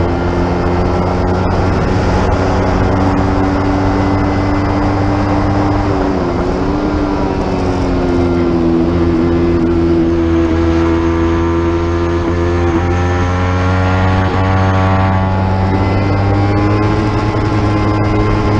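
Racing motorcycle engine running at high revs under load, with wind rumble on the microphone; the engine note dips and recovers, and in the middle a second engine note rises steadily in pitch.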